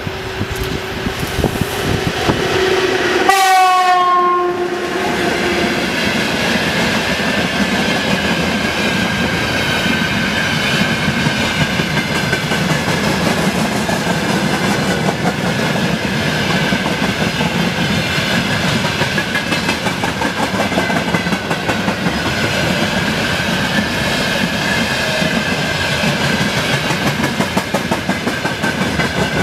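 An electric freight locomotive sounds one horn blast about three seconds in, lasting roughly two seconds and dipping slightly in pitch at the end. After it, a long freight train of covered hopper wagons rolls past with steady wheel rumble and clickety-clack over the rail joints.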